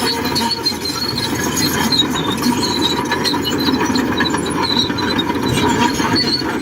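Shantui DH17C2 crawler bulldozer working: its diesel engine runs steadily under a high, wavering squeal of the steel tracks that comes and goes.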